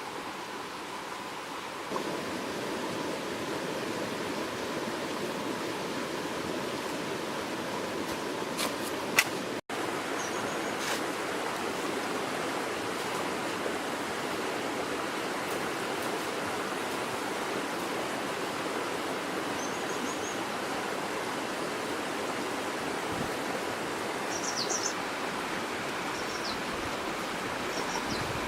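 Steady rush of flowing river water, with a few faint short high chirps and clicks over it.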